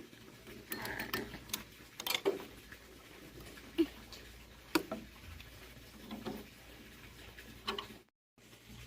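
Scattered, irregular light clicks and taps, like tools or small metal parts being handled during hand work on a tractor, with a brief dropout near the end.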